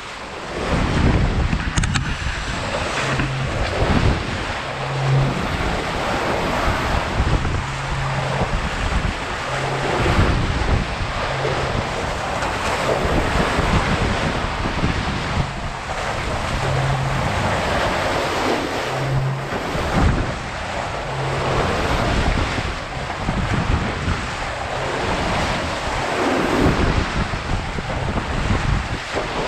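Wind buffeting the microphone over the steady wash of waves and water around a sailboat under way, with short low hums coming and going.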